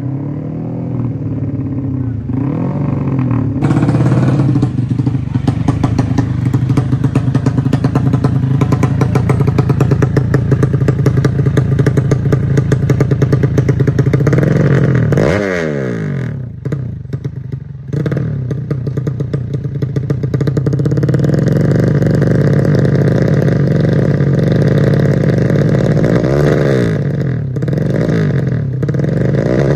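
Single-cylinder four-stroke drag bike engine (Yamaha Jupiter with a Honda Supra cylinder head) revved hard and held at high revs, with a fast pulsing beat. About halfway the revs fall away and stutter before climbing again, and near the end it is blipped up and down several times.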